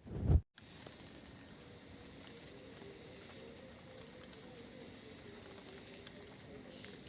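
A short thump at the very start, then, after a brief silent cut, a steady hiss with a constant high-pitched whine over it.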